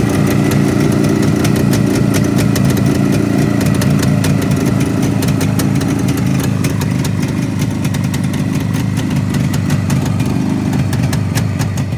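Suzuki T500 Titan's air-cooled 500 cc two-stroke parallel twin idling steadily, with fast, irregular ticking over the even running note.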